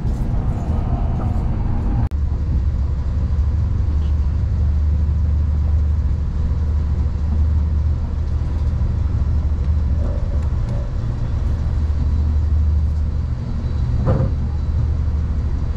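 Amtrak Acela high-speed train running at speed, heard from inside the passenger car: a steady low rumble. It drops out for an instant about two seconds in.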